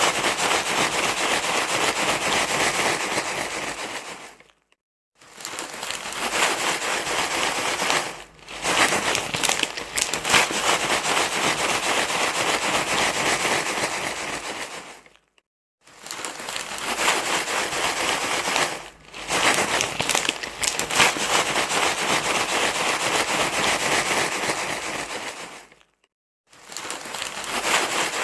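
Dense, crackly rustling of crumpled material, going on in long stretches and stopping briefly three times, with a short dip about 8 seconds in.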